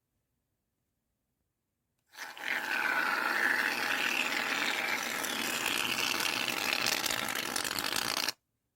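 Shaving foam being sprayed from an aerosol can: a crackly, sputtering hiss that starts about two seconds in, holds steady for about six seconds, and cuts off sharply.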